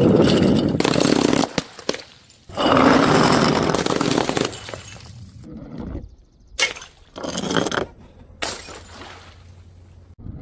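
Glass bottles shattering: a loud crash at the start, a second long crash with debris rattling that fades over a few seconds, then three shorter breaks in the second half.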